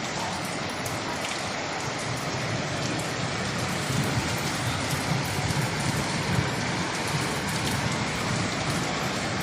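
Rain falling steadily, a dense even hiss that grows a little heavier about four seconds in.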